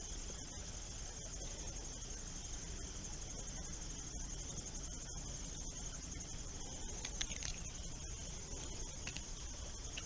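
Steady high-pitched trilling of insects in the creekside vegetation, with a few short chirps about two-thirds of the way in.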